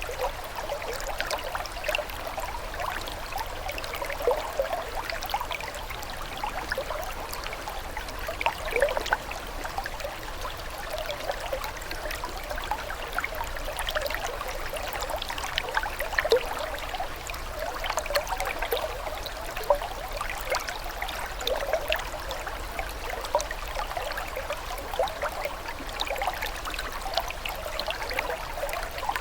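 Water flowing and trickling steadily, with many small bubbling splashes throughout, like a shallow stream.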